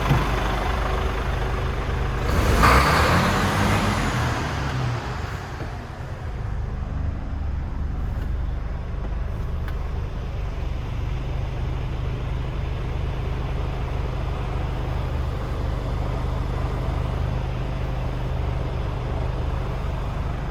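Mercedes Actros straight-six diesel engine idling. About two seconds in, a short burst of hiss comes with a brief rise and fall in engine speed, then the engine settles back to a steady idle.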